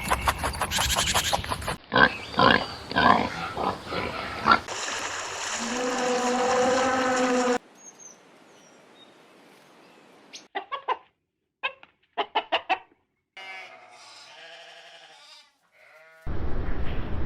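Farm animal calls in separate short clips joined by hard cuts: pitched calls that bend up and down, then one steady call held about three seconds. After a quieter gap come a run of short quick calls and a fainter drawn-out call, then a loud noisy sound begins near the end.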